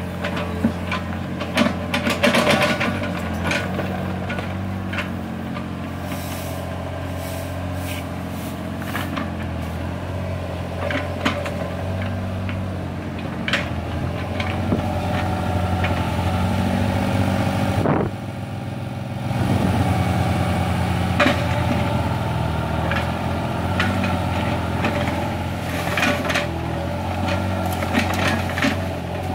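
Small hydraulic excavator's diesel engine running steadily, with scattered knocks and clanks from the machine working. About two-thirds of the way through the engine note drops briefly, then comes back louder.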